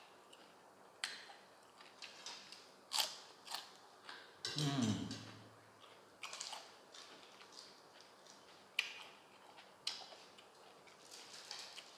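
Close-up eating sounds: a person biting and chewing Thai papaya salad and braised chicken feet, with scattered crisp crunches. About four and a half seconds in, a short low vocal hum that falls in pitch.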